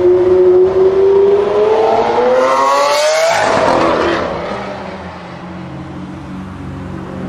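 Lamborghini Aventador's V12 engine accelerating hard, its pitch climbing for about two seconds. About three seconds in the pitch breaks and falls, and the engine fades as the car drives away.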